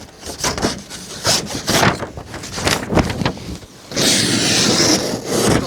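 Knife blade slicing through a test material in a series of short rasping strokes, then one longer, louder scraping cut about four seconds in: a sharpness test of a Microtech Combat Troodon tanto edge that turns out only a little sharp.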